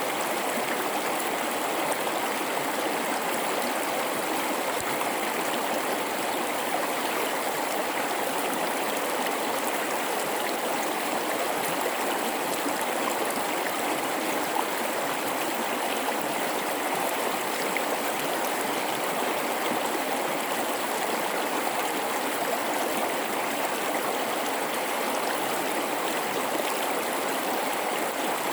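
River water flowing and babbling, an even, unbroken rush.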